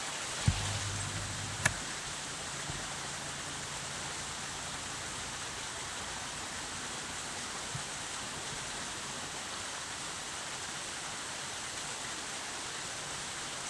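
Steady rushing of flowing river water. Two sharp clicks about half a second and a second and a half in, with a brief low hum between them.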